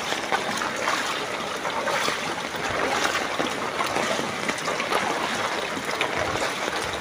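Floodwater splashing and running: a steady watery noise made of many small splashes, without pause.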